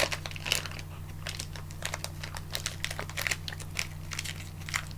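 Chocolate bar wrapper crinkling as it is handled: a run of irregular crackles over a steady low hum.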